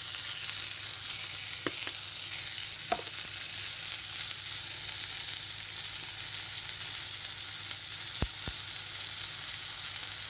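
Floured cod fillet frying in hot oil in a pan: a steady high sizzle, with a few faint clicks about two and three seconds in and again near the end.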